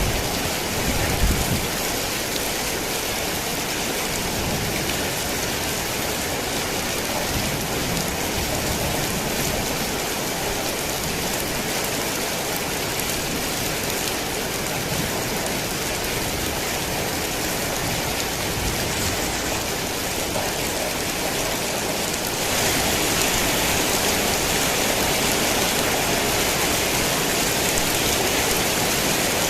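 Heavy rain falling steadily and pattering on surfaces, with a short low thump about a second in. The rain grows louder about three-quarters of the way through.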